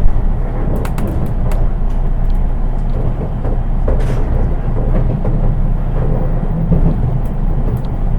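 Interior running noise of a JR East 183 series electric train, heard from its unpowered KuHa driving trailer car: a steady low rumble of wheels on rail, with no traction-motor whine, and a few short clicks and knocks through it.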